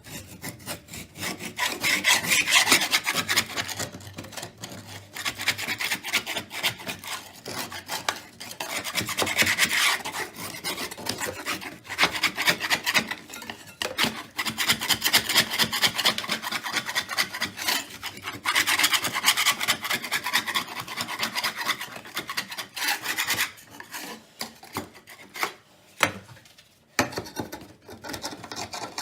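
Vigorous rapid scrubbing strokes, rasping against a hard surface, in long runs with brief pauses.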